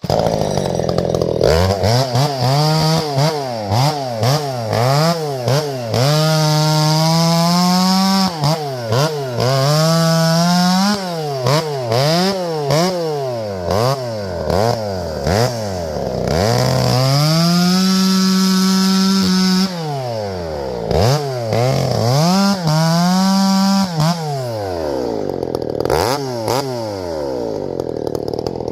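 Two-stroke chainsaw running, revved up and down over and over between idle and full throttle, with several stretches held at full throttle for two to three seconds each. The sound begins abruptly.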